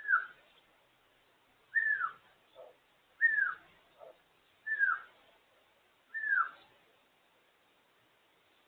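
African grey parrot whistling: five short falling whistles, about a second and a half apart, with two fainter low notes between them.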